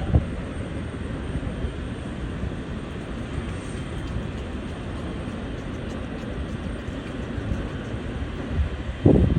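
Jet airliner engines, a steady low rumble, with a short knock just after the start and a louder bump near the end.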